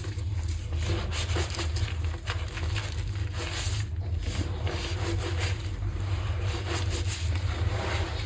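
Gym chalk being crushed and squeezed by hand, a run of irregular crunches, crackles and squeaks, over a steady low rumble.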